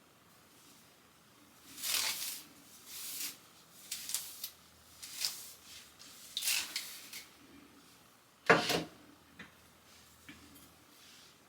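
A string of short rustling and handling noises, with one sharper, louder click about eight and a half seconds in.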